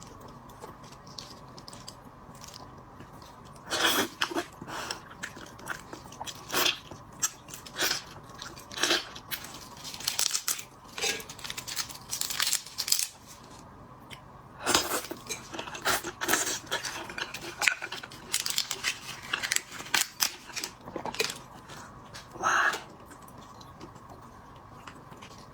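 Close-miked eating of braised prawns: bites and chewing with the crunch of shell, coming in clusters with short pauses.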